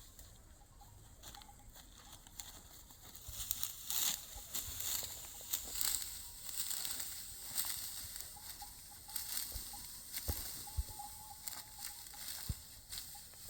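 Irregular dry rustling and crackling with many sharp ticks, faint at first and growing busier about three seconds in.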